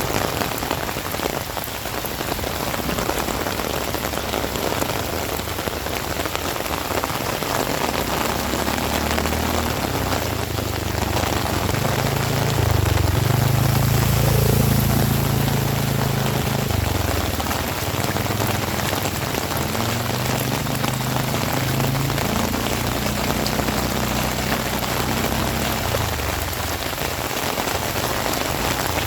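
Heavy rain falling steadily. A low drone builds up about a third of the way in, is loudest around the middle, and fades out well before the end.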